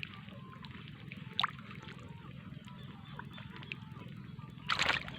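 Water sloshing and small squelches from hands working in shallow water and mud, with a short louder splash near the end.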